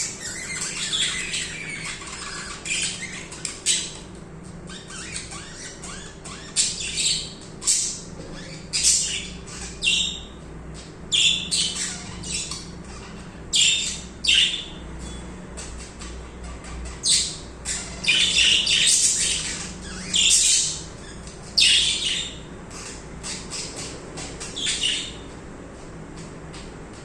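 Budgerigars chirping and squawking in quick, irregular bursts of short sharp calls, with a faint steady low hum underneath.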